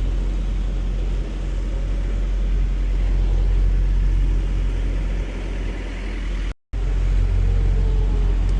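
Semi-truck's diesel engine running steadily at low speed, a deep rumble, while the tractor reverses. The sound drops out completely for a moment about six and a half seconds in.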